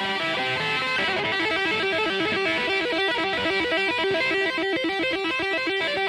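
Rock music led by an electric guitar riff of fast repeated notes.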